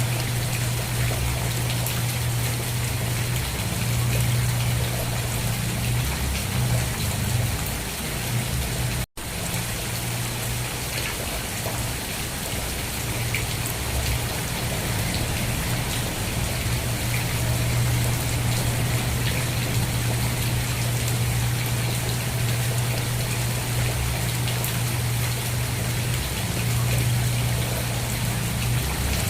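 Steady heavy rain falling on a surface, a dense even patter of drops with a low rumble underneath. The sound drops out to silence for a split second about nine seconds in, then resumes.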